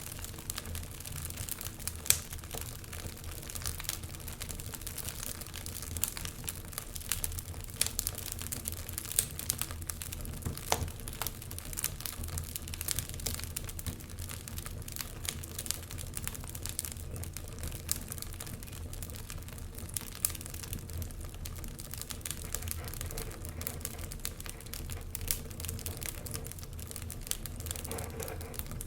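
Wood fire burning in a fireplace, crackling with frequent sharp pops over a low steady rumble of the flames. The loudest pop comes about two seconds in.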